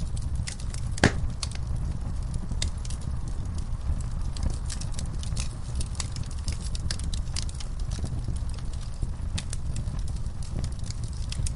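Wood fire burning in a fireplace, crackling with irregular sharp pops over a steady low rumble of the flames; one loud pop about a second in.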